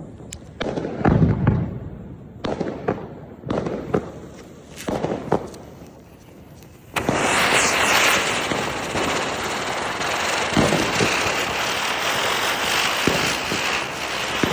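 A series of sharp firecracker bangs, then about seven seconds in a sudden loud, steady hissing rush with crackle starts as the Cock brand ground spinners (chakri) catch and spin together.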